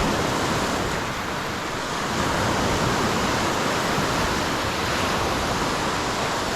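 Lake Superior waves washing steadily onto the shore, a continuous surf noise mixed with wind.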